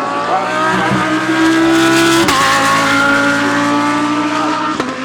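GT3 race cars running past under power, their engines overlapping, with a drop in pitch and a sharp click about two seconds in, like a gearshift.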